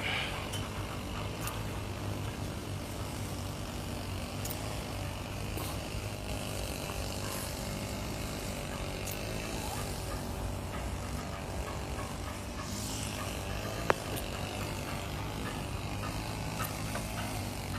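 Truck engine running steadily with a low hum. A single sharp click comes about 14 seconds in.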